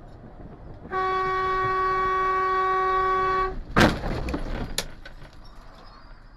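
Car horn held for about two and a half seconds, then a loud sudden bang of an impact, with a few smaller knocks after it.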